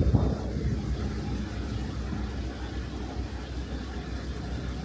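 Heavy diesel engine running steadily with a low rumble, with a short bump right at the start.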